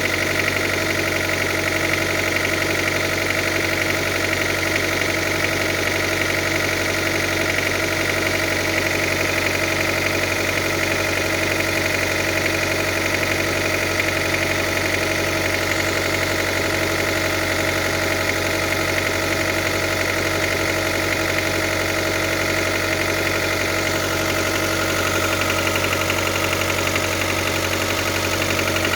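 Engine idling steadily with a knock running through it, the "стук" that points to a mechanical fault in the engine.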